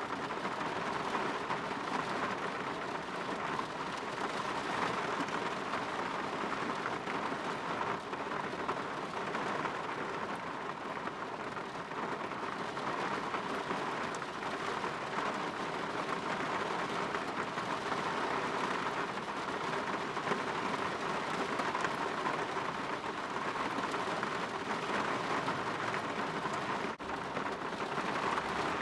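Steady rain pattering against a window, an even hiss of many small drops with no let-up. There is a momentary break in the sound near the end.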